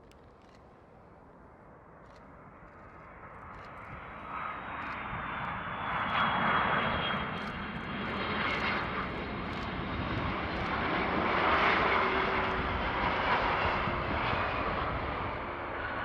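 A large jet airliner coming in to land, its engines growing from faint to loud over the first six seconds and then holding a loud, steady rush with a high whine that slides slightly down in pitch as it passes.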